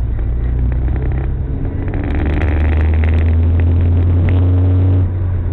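Car engine and road noise: a loud, steady low drone with some engine tones above it and scattered clicks and rattles in the middle, easing slightly about five seconds in.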